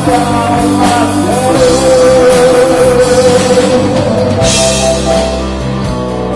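Live rock band playing: drum kit, electric guitar and bass, with one long held note in the middle and a cymbal crash about four and a half seconds in.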